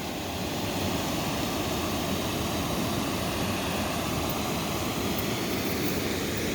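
Small creek waterfall rushing steadily.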